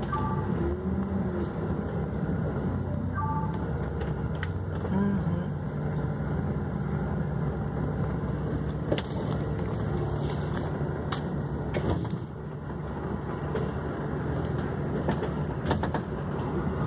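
Car engine running steadily, heard from inside the car's cabin as a low rumble.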